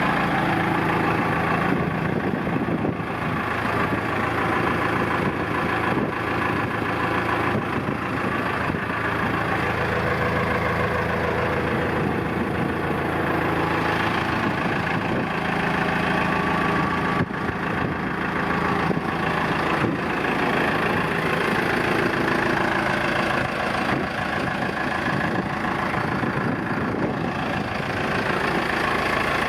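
Diesel engine of a 2001 Thwaites 6-tonne straight-tip dumper running steadily.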